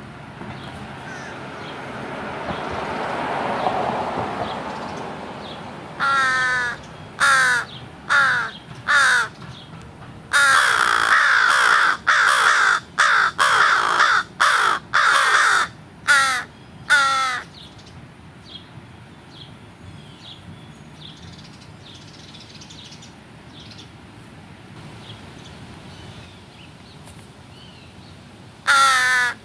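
American crows cawing: four separate caws, then a dense run of overlapping caws for several seconds, and two more caws near the end. Earlier, a broad rush of noise swells and fades, peaking about four seconds in.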